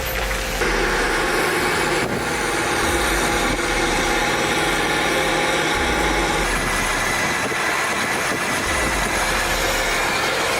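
Heavy tractor engine running steadily, its sound shifting abruptly about half a second in and again a few times.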